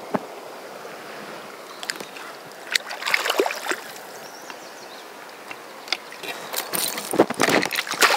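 River current running steadily, with two bouts of splashing at the surface, about three seconds in and again near the end, as a hooked trout is brought in.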